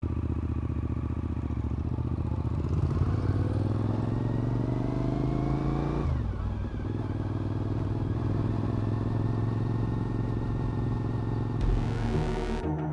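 Motorcycle engine running under way, its revs climbing for a few seconds, then falling sharply about six seconds in, as at a gear change, and holding steady after. A short burst of noise comes near the end.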